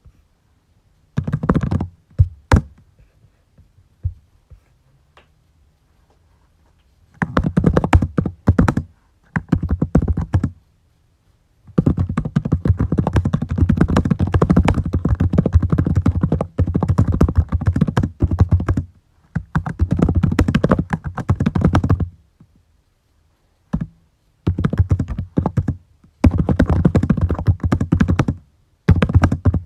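Typing on a computer keyboard in bursts of rapid keystrokes, a few single key taps at first, then longer runs of several seconds separated by short pauses.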